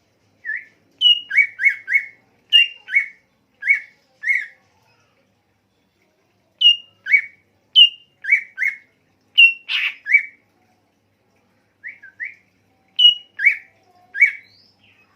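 A songbird calling in short whistled notes, each a quick drop in pitch, given in clusters of two to four with short pauses between clusters, and one sharper, louder note near the middle.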